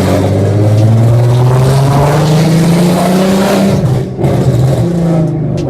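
Car engine and loud exhaust under hard acceleration, the pitch rising steadily for nearly four seconds, a short break about four seconds in as it shifts up, then pulling again before easing off near the end.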